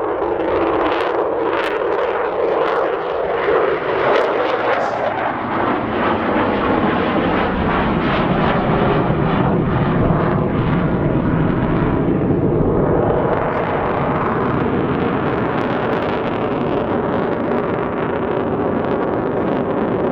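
Avro Vulcan jet bomber's four Rolls-Royce Olympus turbojets running loud on a low display pass, a steady jet roar that turns deeper about five seconds in.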